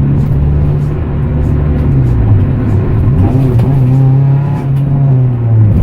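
Honda Integra's four-cylinder engine running through a muffler-delete exhaust while driving. The engine note dips about two seconds in, climbs again a second later, holds, then falls near the end.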